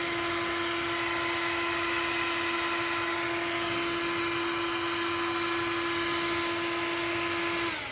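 Heat gun running steadily, its fan blowing with an even whine and hiss, then switched off near the end as it winds down.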